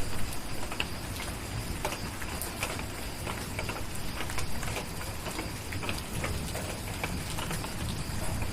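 Steady rain hissing and pattering, with scattered sharp crackles and pops from a wood fire and a low rumble underneath.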